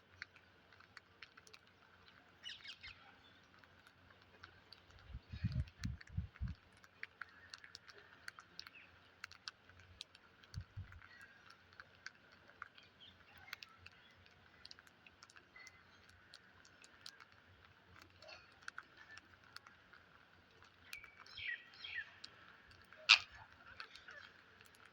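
Pet parrots giving short, scattered chirps amid many small clicks and taps, with a few low thumps about five to six seconds in and one sharp loud click near the end.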